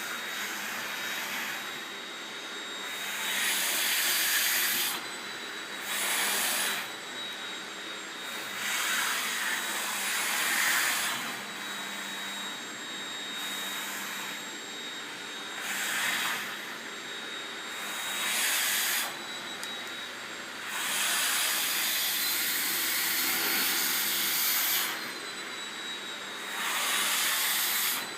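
Vacuum cleaner running with a steady high whine, the rush of its suction air surging louder every few seconds as the nozzle moves.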